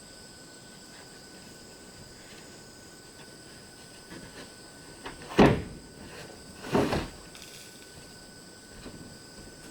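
Two loud knocks about a second and a half apart, with a few lighter knocks before and after, like wooden boards being knocked or set down during door-making. Under them runs a steady faint hiss with thin high steady tones.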